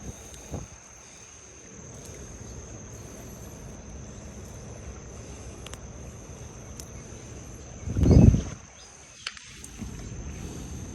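Outdoor riverbank ambience: a steady low rumble of background noise under a thin, steady high whine. A brief low knock just after the start, and one loud low thump lasting about half a second about eight seconds in.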